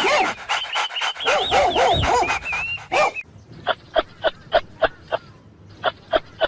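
Dogs yelping: many overlapping high, arching whines and yelps for about three seconds. Then, from a different recording, a run of short, sharp high yips in quick groups of three or four.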